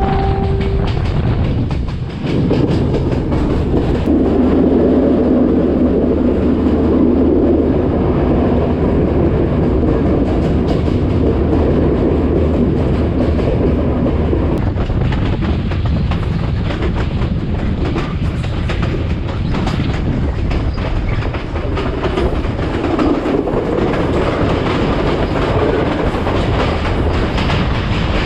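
Class S13 diesel multiple unit running along the line, its wheels clicking over rail joints under a steady rumble. A short steady tone sounds right at the start. The rumble is heavier for the first half and eases after about fourteen seconds.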